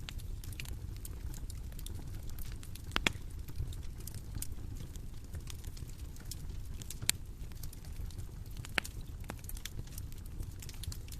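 Bonfire crackling: a steady low rumble of burning with scattered sharp pops and snaps, the loudest about three, seven and nine seconds in.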